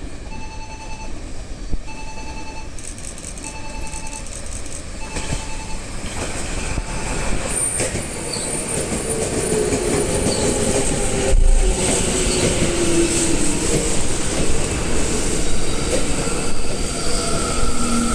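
Tokyo Metro 10000 series electric train running into the station and braking, its noise building, with a falling whine and wheel squeal as it slows. For the first few seconds a beeping tone repeats about once a second.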